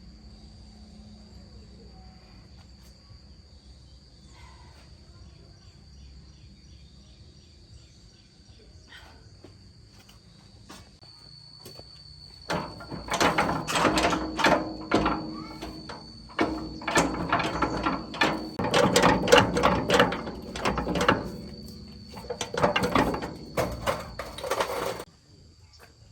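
Hand tool work on the concrete mixer's metal parts: after a quiet stretch with a faint steady high tone, a loud run of rapid scraping and knocking strokes starts about halfway in, lasts about twelve seconds with a short break or two, and stops suddenly.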